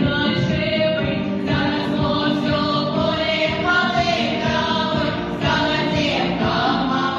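A song sung by several voices together, with musical accompaniment.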